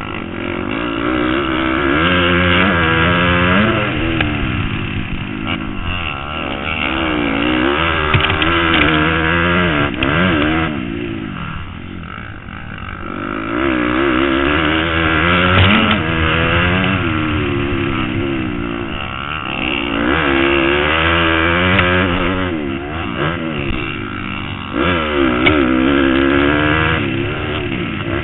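Motocross bike engine revving hard and backing off over and over, its pitch climbing and dropping every second or two as the throttle is worked and gears change, with a quieter lull about halfway through.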